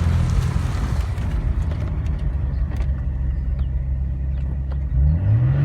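Nissan 300ZX Twin Turbo's 3.0-litre V6 heard from inside the car while driving: the engine note drops to a low rumble, then about five seconds in rises quickly as the car accelerates again.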